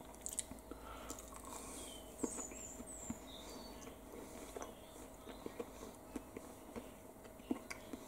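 Faint chewing of a mouthful of crisp cornmeal-breaded chicken fried steak: scattered soft crunches and mouth clicks.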